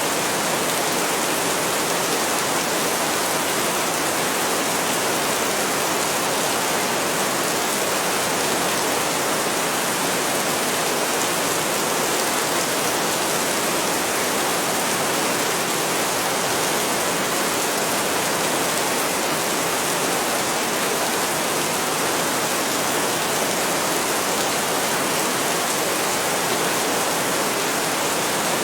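Heavy rain falling in a steady, unbroken hiss, with no thunder.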